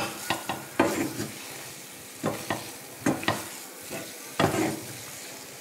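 Bread halwa sizzling in ghee in a steel pan, with a wooden spatula scraping and pressing through it in several separate strokes over the steady frying hiss.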